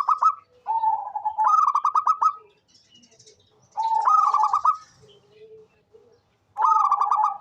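Zebra dove (perkutut) singing: phrases of quick staccato cooing notes. There are about four phrases, each about a second long, with gaps of one to two seconds between them.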